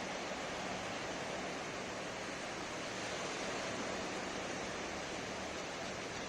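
Ocean surf washing on a beach, a steady rush of breaking waves with no single breaker standing out.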